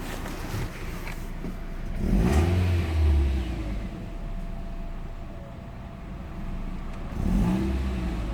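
1996 Audi A4's 1.8-litre four-cylinder ADR engine idling and revved twice with the throttle, about two seconds in and again near the end, falling back to idle after each. After the pedal is released the revs dip and hunt a few times before settling, a fault the owner has noticed along with a new strange noise.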